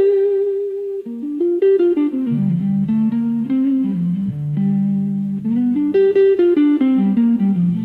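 Slow blues music: a guitar plays a single-note melodic line, stepping and sliding between notes, over long low bass notes.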